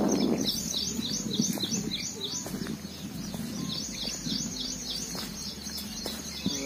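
A small bird calling a steady series of short, high chirps, about three or four a second, with a brief pause a little past the middle. Underneath is low rustling and handling noise, loudest right at the start.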